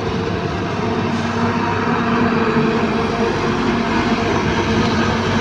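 Heavy diesel machinery running steadily at work, an excavator engine with its hum and rumble holding even throughout.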